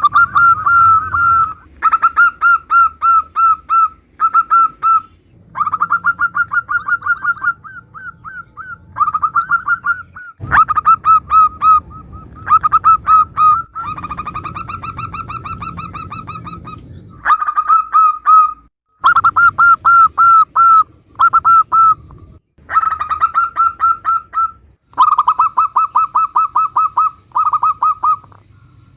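Zebra doves (perkutut) cooing: phrase after phrase of fast, evenly repeated coo notes, each phrase a few seconds long and separated by short breaks.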